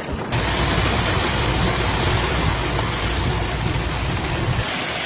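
Storm noise: a steady rush of wind, with heavy low rumbling wind buffeting on the microphone that cuts off abruptly about four and a half seconds in.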